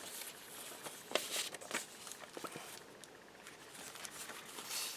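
Paper pages of a handmade junk journal being turned and handled: soft rustles and a few light taps, mostly in the first half.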